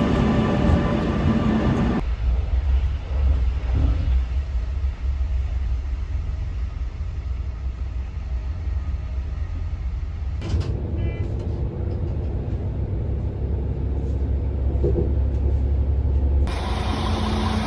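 Low, steady rumble of a moving vehicle heard from inside, the background changing abruptly about two, ten and sixteen seconds in.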